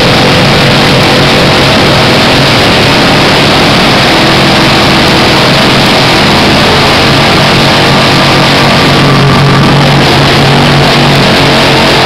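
Custom motorcycle engines held at high revs while their rear tyres spin in burnouts, making a loud, steady din mixed with loud rock music.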